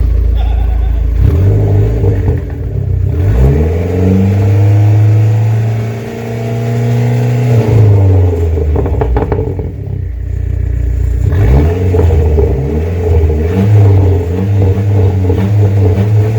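Dodge Neon SRT-4's big-turbo 2.4-litre four-cylinder engine being revved hard: the pitch climbs, holds high, then falls away, about three times over.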